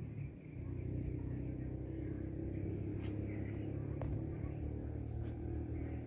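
Outdoor forest ambience: short high bird chirps repeating about once a second over a steady low rumble.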